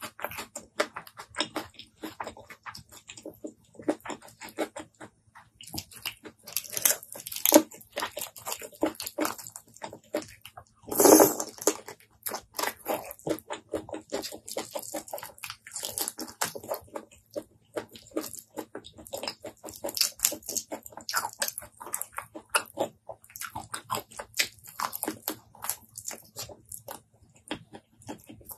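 Close-miked chewing and wet mouth sounds of someone eating sauce-coated giant prawns with rice by hand: quick smacks and clicks throughout, with a louder crunching burst about eleven seconds in.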